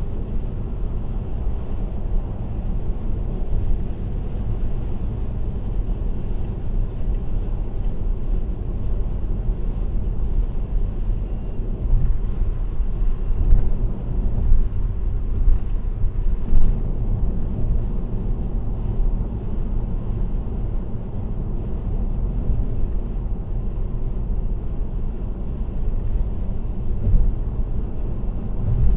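Car driving at expressway speed: a steady low road and tyre rumble, with a few brief thumps around the middle.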